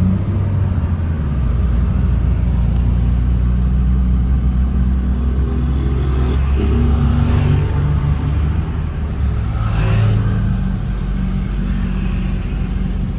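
A car driving in traffic: steady low engine and road rumble, with the engine note shifting as it accelerates, and a brief rushing swell about ten seconds in.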